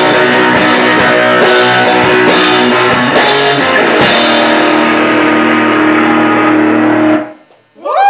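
Live rock band with electric guitars and drum kit playing out the end of a song, with drum and cymbal hits in the first few seconds and a held final chord from about four seconds in. The band cuts off sharply about seven seconds in.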